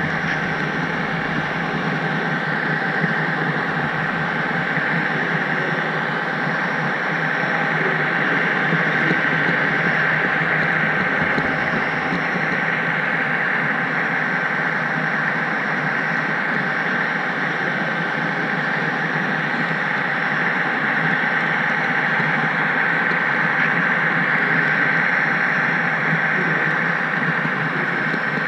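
Steady running noise of an HO-scale model train heard from a camera riding on the caboose, with a thin, steady high whine over it.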